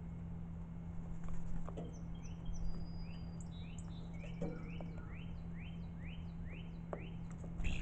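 Small birds calling: a series of short rising chirps repeated about twice a second, with some higher brief notes, over a steady low hum. A few soft knocks, and a sudden loud knock near the end.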